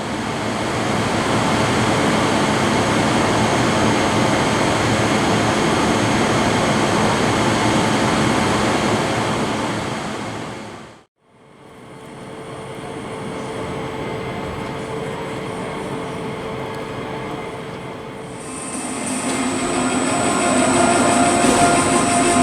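Railway vehicle sound: a steady, dense train rumble that fades out to silence about halfway through. A quieter train sound with a steady hum follows and grows louder near the end, with a high-pitched whine.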